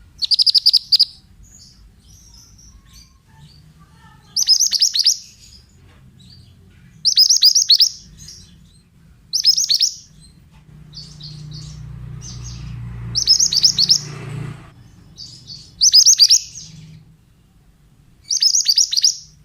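Pied bushchat (mantenan) singing: seven short, bright phrases of quick notes, one every two to three seconds, with softer chirps between them. A low hum comes in around the middle and stops abruptly just before the fifth phrase ends.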